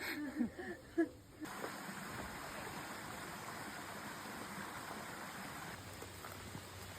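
A voice briefly, then, about one and a half seconds in, a sudden switch to the steady rush of flowing water from a rainforest stream.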